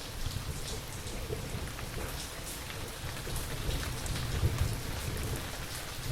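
Steady rain with scattered louder drops, and a low, rolling thunder rumble that sets in at the start and carries on throughout.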